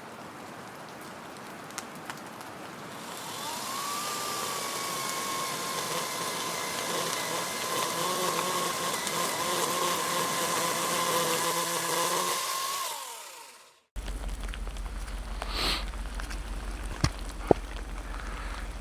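Rain pattering, then a small motor spins up with a rising whine about three seconds in, runs steadily for about nine seconds and winds down. The sound cuts off abruptly just after.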